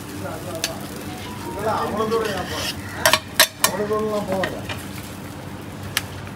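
Oyster omelette sizzling in a large flat wok, with a metal spatula clinking against the pan and plate a few times, most sharply about three seconds in.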